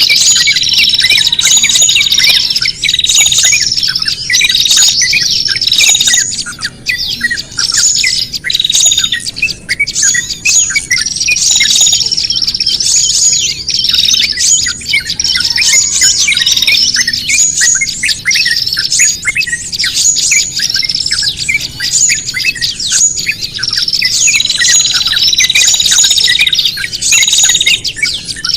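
Small songbirds calling in agitation: a dense chatter of high chirps and squawks from several birds at once, in a pattern that repeats every second or two. These are the alarm and distress calls used as lure audio to draw small birds in for trapping.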